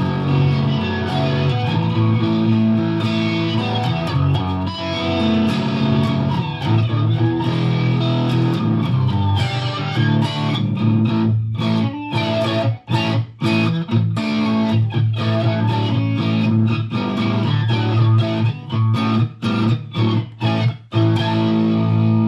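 Electric Stratocaster on its bridge pickup played through a Fender Mustang GTX100 modelling amp on the Rage Shifter Exp preset. Chords ring out through the first half, then turn into short clipped chords with brief gaps from about halfway.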